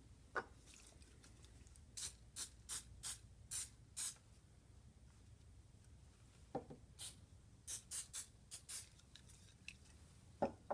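Short squirts of spray oil being applied to a pair of antique steel grass trimmers, about a dozen in two groups, with a few light knocks from handling the tool.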